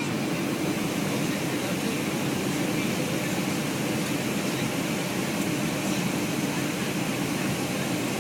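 Steady rushing cabin noise of a Boeing 757-200 airliner in flight, engine and airflow noise at an even level.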